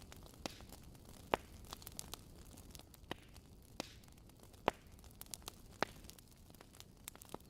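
Fireplace crackling: irregular sharp pops and snaps over a low, steady hiss, with two louder pops about a second in and past halfway.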